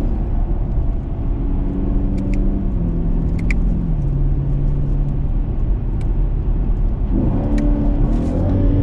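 2020 Camaro SS's 6.2-litre V8 running, heard from inside the cabin while driving, its note stepping lower over the first few seconds, then climbing as the revs rise about seven seconds in. A few light clicks sound over it.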